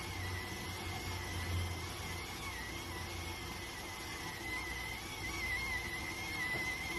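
Electric rice cooker steaming, with a thin, steady whistle of escaping steam that wavers slightly in pitch over a soft hiss and a low hum.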